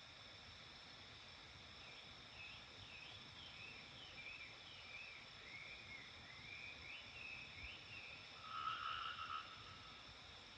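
Quiet dawn countryside ambience: a bird sings a run of short swooping whistled notes over a steady high insect drone, then a brief louder rattling call comes in about eight seconds in.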